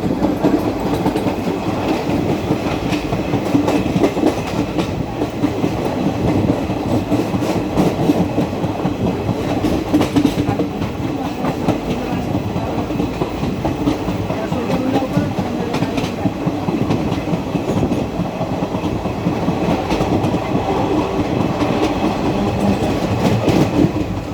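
Train running along the track: a steady rumble of wheels on rails, with occasional clicks of the wheels passing over rail joints.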